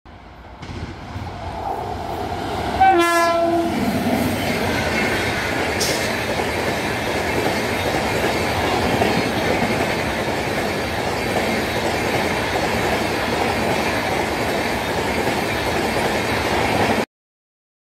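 Indian Railways superfast express train approaching at speed and passing close by, with one short horn blast about three seconds in that drops slightly in pitch. After it comes the steady, loud rush and wheel clatter of the coaches running past, which cuts off suddenly near the end.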